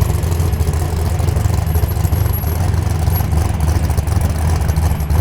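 Tuned car's engine idling loudly through its exhaust, with a deep, steady, uneven pulse.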